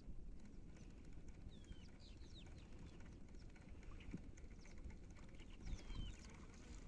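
Faint bird chirps, a few short calls that sweep downward in pitch, scattered over a low steady rumble.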